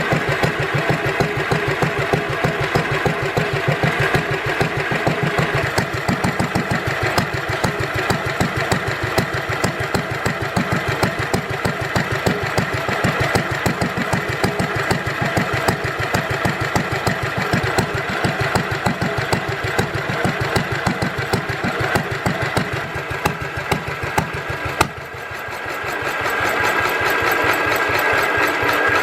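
Lister D 2 HP single-cylinder stationary engine running steadily with an even, rapid exhaust beat. About 25 seconds in the sound suddenly drops quieter and thinner, then builds back up over a couple of seconds.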